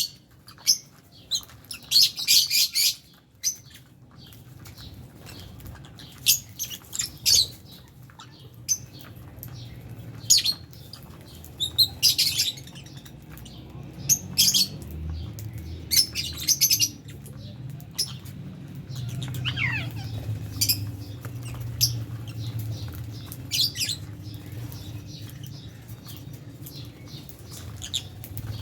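Lovebirds in a flock chirping and squawking: short, sharp, high-pitched calls every second or so, over a low steady hum.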